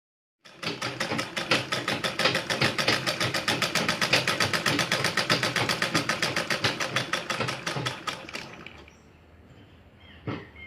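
Sewing machine running at speed with a fast, even stitching clatter and a harsh sound that the owner likens to a circular saw, suggesting the machine is not running as it should. It winds down and stops about eight to nine seconds in, and a single short knock comes near the end.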